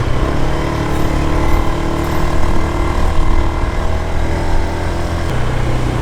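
Small motorcycle engine running steadily while riding, its note shifting about five seconds in.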